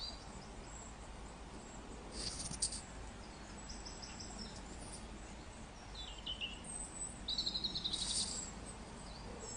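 Wild birds calling in short high phrases, with a fast trill of repeated notes near the end, over a faint steady rush of water and breeze.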